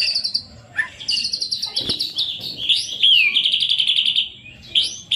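White-rumped shama (murai batu) singing a busy song of fast rattling trills, phrase after phrase, with short upswept whistles between them. There is a single sharp knock about two seconds in.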